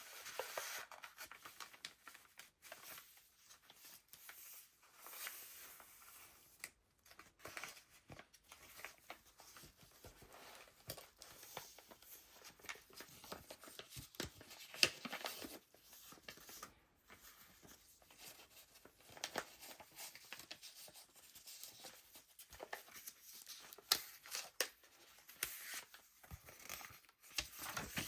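Pages of a handmade paper junk journal being turned and handled: faint, intermittent rustling and crinkling of paper, with occasional light taps and clicks.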